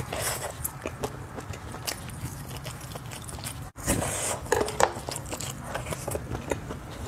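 Close-miked biting and chewing of a skewered spicy sausage: a run of short, sharp mouth clicks and smacks, with a louder cluster of them just after a momentary break in the sound a little before halfway.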